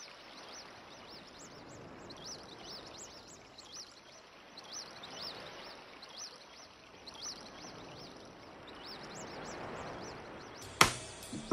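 Birds chirping in short repeated high chirps over a steady background hiss. About a second before the end there is one sudden sharp hit with a short ring.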